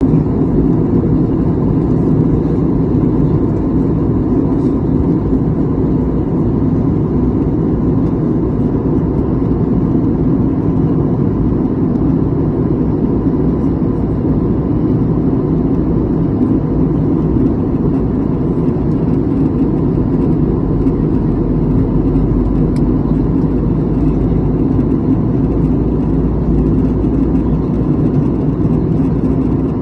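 Steady low rumble of a moving car, unchanging throughout, with a faint steady tone above it.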